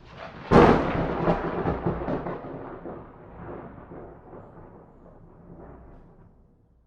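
A thunderclap: a short build-up, a sharp crack about half a second in, then a rolling rumble that dies away over several seconds.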